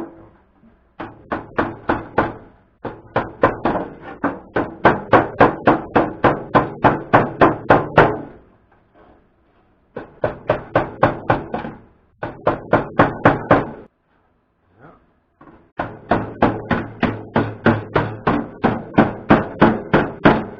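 Rapid hammering on the thin sheet metal of a toaster oven, beating bent metal flat. The knocks come at about four to five blows a second in several runs, with short pauses between them.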